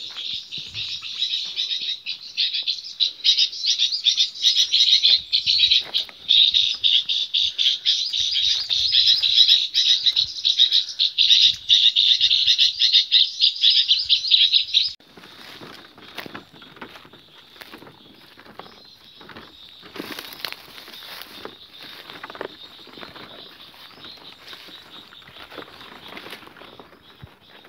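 A flock of gelatik birds chirping together in a dense, loud, high-pitched chatter. About halfway through it drops suddenly to fainter chirping over low rustling and knocking noises.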